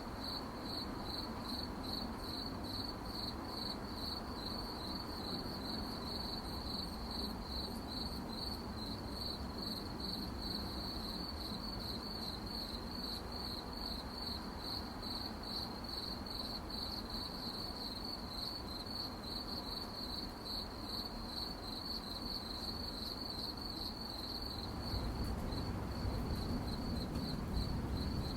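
Crickets chirping at night, a steady rapid pulsing trill, over a low background rumble that swells near the end.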